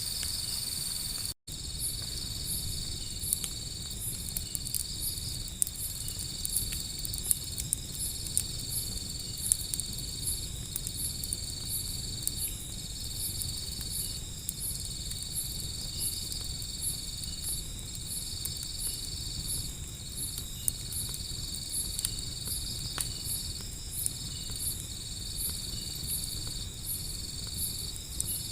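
Insects chirring steadily, with a higher call pulsing about once or twice a second over the steady trill, and the scattered pops and crackles of a wood fire. The sound cuts out for an instant about a second and a half in.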